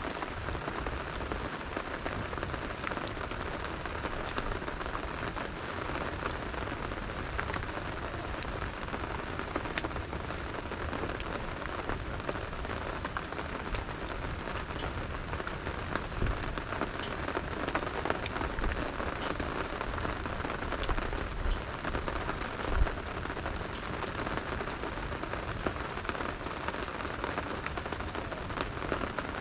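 Steady rain falling and pattering on surfaces, with occasional sharp ticks and one louder low thump about 23 seconds in.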